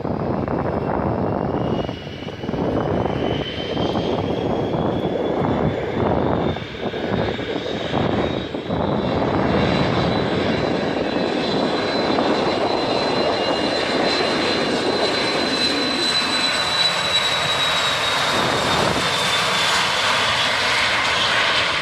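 Dassault Falcon business jet's turbofan engines at takeoff power: a steady roar with a high whine that rises in pitch over the first half and eases slightly near the end.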